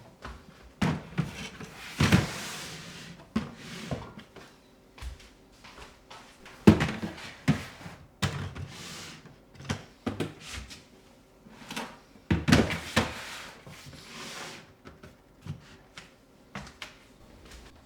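Household items being handled and put away: an irregular run of knocks and clunks, with rustling or sliding in between, the loudest near the middle.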